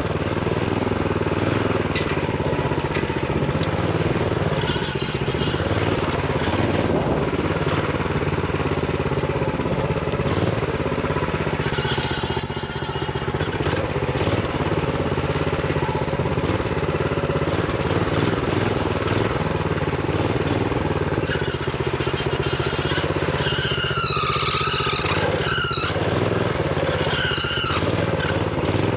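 Honda GX390 single-cylinder four-stroke engine on a minibike running steadily while the bike is ridden, its rpm held down by a throttle stop screw. A few short, wavering high squeals come through in the last few seconds.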